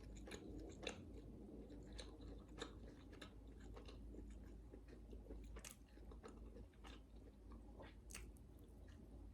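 Faint chewing of crispy fried food, with irregular small crunches and mouth clicks.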